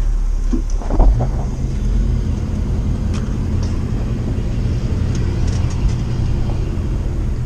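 Vehicle engine running with a steady low rumble, heard from inside the cab, with a brief knock about a second in.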